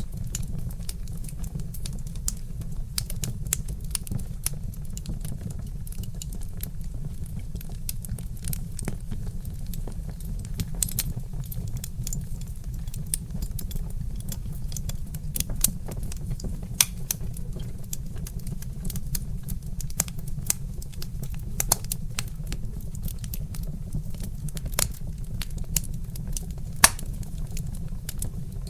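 Log fire crackling in a fireplace: frequent sharp pops and snaps over a steady low rumble, with one louder snap near the end.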